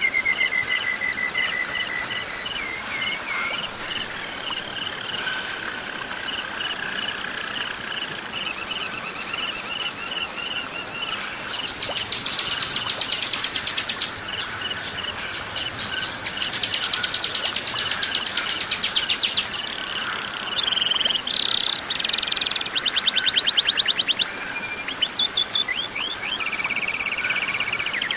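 Warbler and bar-winged prinia (ciblek) song layered over chirping crickets. Two long, fast, high rattling trills come in the middle, followed by a run of short varied chirps and trills near the end.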